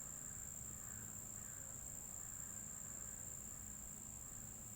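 Insects making a continuous, even, high-pitched drone, with a faint low rumble underneath.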